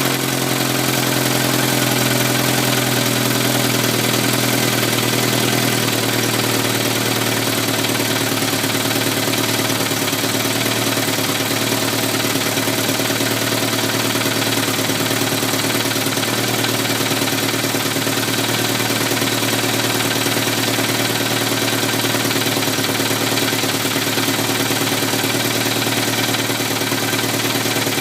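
Turbocharged Honda S2000 AP1's F20C four-cylinder engine idling steadily with a fast, light tick whose cause is unknown. The idle settles slightly lower about five or six seconds in.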